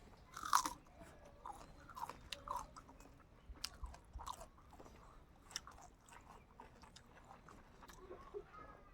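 Close-miked chewing and biting into spicy chicken, with wet mouth smacks and small crunches at irregular moments, the loudest about half a second in.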